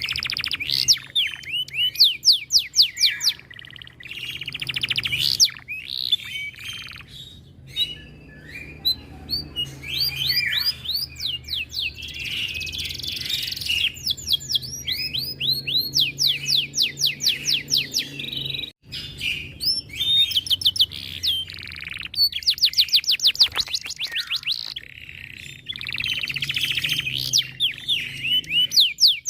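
Domestic canary in breeding condition singing a long, loud song of rapid trills and rolls: fast runs of repeated sweeping high notes in long phrases with short breaks between them.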